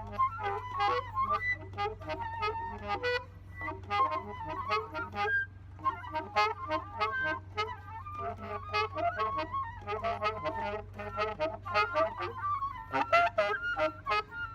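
Live instrumental jam: quick runs of pitched notes with sharp percussive attacks, over a steady low hum.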